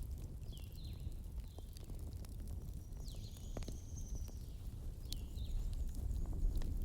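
Wood fire crackling, with scattered sharp pops over a steady low rumble. Several short high chirps or whistles come and go throughout.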